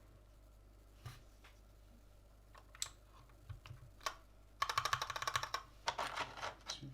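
Typing on a Gamakay LK67 mechanical keyboard with Gateron Red linear switches. A few scattered keystrokes come first, then a fast run of keypresses about a second long from about four and a half seconds in, then more uneven typing.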